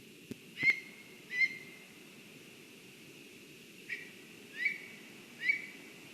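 A bird calling: five short whistled notes, each rising sharply and then held briefly, two near the start and three later, over a steady low background hiss. A sharp click comes just before the first note.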